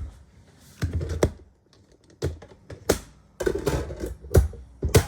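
Irregular clicks and taps in uneven clusters with short quiet gaps between them, like keys or buttons being pressed.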